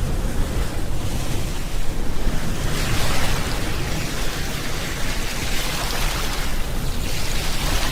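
Ocean surf washing onto the shore over a steady low rumble. Two waves swell in about three and six seconds in, each rising into a rushing hiss and then ebbing.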